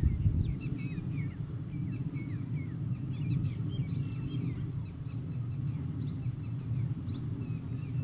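Birds chirping in many quick short notes, busiest in the first half and thinning out later, over a steady low rumble.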